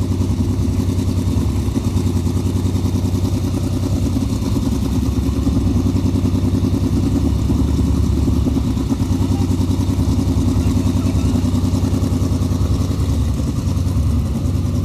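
Sprint car V8 engine running steadily at low revs with a fast, pulsing exhaust beat, on its first start-up after being built.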